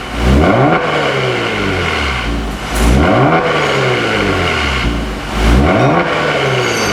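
Genesis G70 3.3T's twin-turbo V6 revved through an aftermarket Tunist chamber-type dual valve exhaust: three quick blips, near the start, about three seconds in and about five and a half seconds in, each rising sharply and then falling back over about two seconds.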